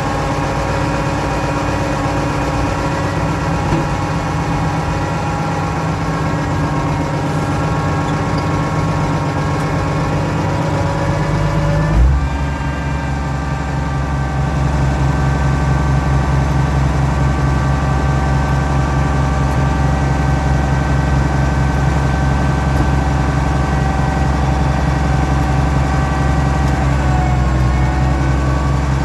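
Oliver 1650 tractor engine running steadily with its loader hydraulics whining, the whine coming from hydraulics that are cold, below freezing, and a little low on oil. About twelve seconds in there is a single clunk, after which the engine runs with a lower, heavier note.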